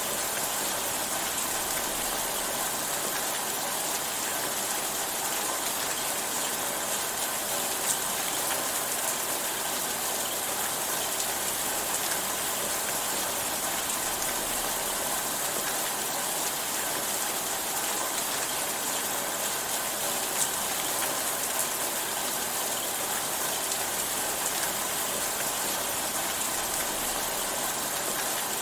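Steady rain falling, an even hiss of drops on a surface, with a couple of louder single drop ticks.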